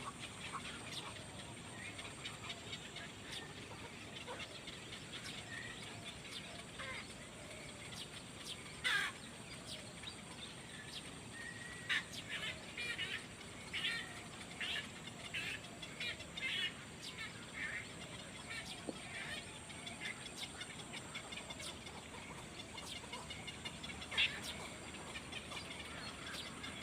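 Small birds chirping: short high calls scattered over a faint steady hiss, with a quick run of repeated chirps in the middle.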